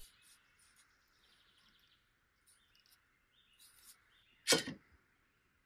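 Faint bird chirps in the background, and one sharp knock about four and a half seconds in.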